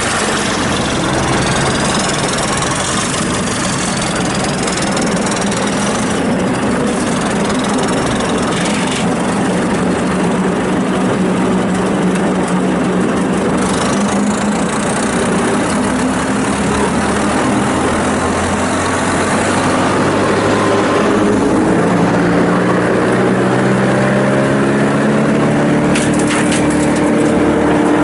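Morbark 2400XL wood chipper's Perkins four-cylinder turbo diesel running loud and steady, its pitch climbing gradually over the last several seconds as it speeds up. A faint high whine rises and falls in pitch during the first third.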